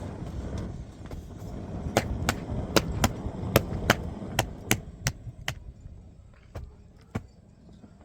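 A run of sharp knocks or taps, about three a second for a few seconds, over a low rumble. A few scattered knocks follow near the end.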